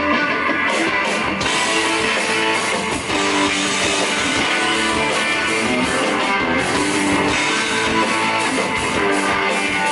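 Live blues-rock band playing, with electric guitar to the fore over the drum kit.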